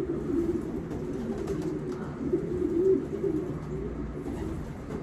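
Racing pigeons cooing in a loft: a continuous low, warbling coo from several birds, with faint clicks and rustles.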